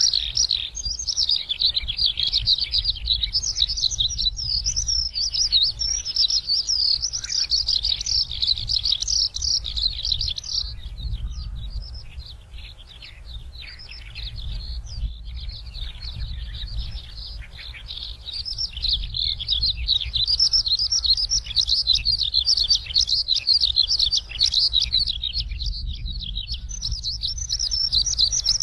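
A small rice-field songbird singing a fast, continuous, high-pitched twittering song, which turns quieter for a few seconds around the middle, over a low steady hum.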